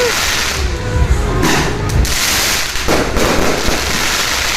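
Dense fireworks and firecrackers going off without a break: continuous crackling over a steady rumble of low booms, with a couple of brief falling whistles.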